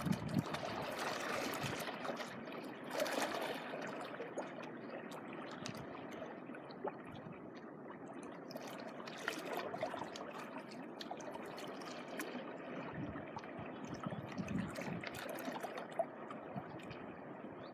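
Small waves washing and trickling at the water's edge, swelling a few times as each one comes in and draws back.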